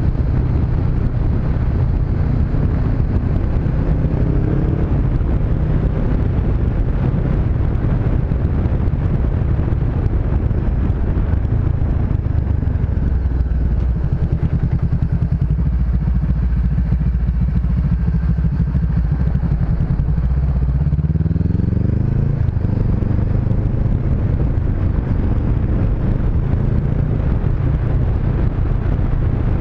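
Honda CB500X's parallel-twin engine running while riding, its note steady for long stretches, with a rise in revs about two thirds of the way through.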